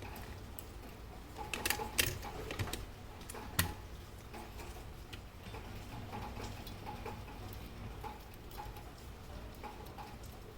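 Mauthe grandfather clock movement ticking steadily, with a few louder sharp clicks and knocks in the first few seconds.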